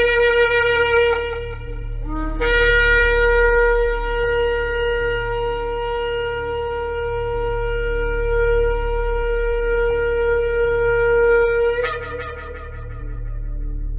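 Shofar blasts: a blast of about two seconds, then one long held note of about nine seconds that cracks upward just before it stops, near the twelve-second mark.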